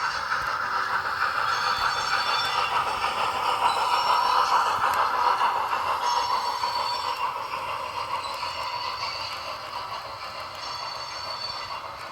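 H0 scale model train rolling along the track, wheels clattering on the rails with a faint high squeal. It starts suddenly, grows louder toward the middle, then fades as the train passes.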